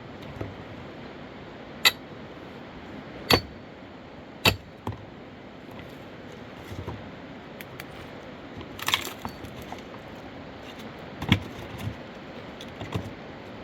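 Sharp knocks, three loud ones about a second and a half apart, then a quieter cluster and another loud knock near the end, over a steady rushing background.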